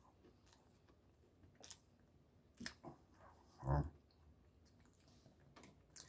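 Person chewing a mouthful of crunchy fried chicken sandwich with faint, scattered mouth clicks, and one louder low thump a little under four seconds in.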